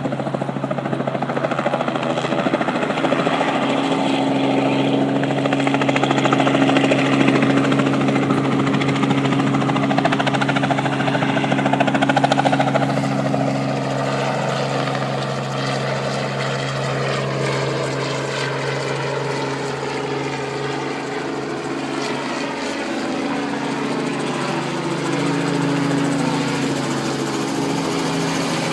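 Helicopter flying close by, its rotor and turbine making a steady loud drone. It is loudest about ten seconds in and eases slightly after that, with a sweeping shift in tone as it moves.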